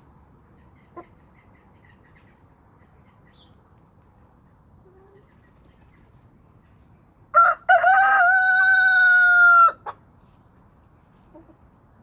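A rooster crowing once, about seven seconds in: two short opening notes, then a long held note of about two seconds that cuts off abruptly.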